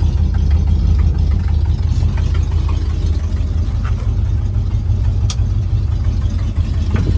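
The 400 V8 of a 1977 Ford F350 idling steadily with an even low rumble. A single small click comes about five seconds in.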